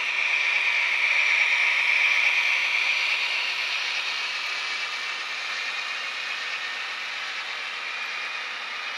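HO scale model train rolling along the track: the steady whirr of the metal wheels and the locomotive gear drives. It grows louder as the train passes close, peaking about two seconds in, then slowly fades as it moves away.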